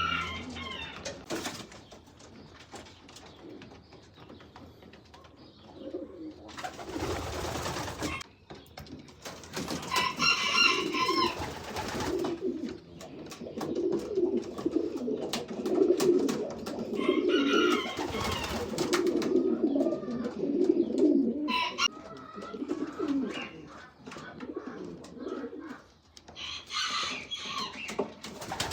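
Racing pigeons cooing in a loft: repeated low, rolling coos, thickest through the middle stretch, with a few higher chirping calls and a brief rustling burst about seven seconds in.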